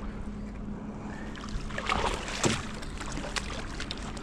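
Small fishing boat on the water: a steady low hum over the wash of water against the hull, with a few short clicks and splashes about two seconds in.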